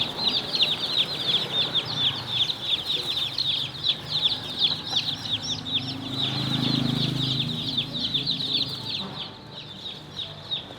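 A box full of newly hatched chicks peeping nonstop, many rapid, high, falling cheeps overlapping. A low hum rises about six seconds in and fades a couple of seconds later.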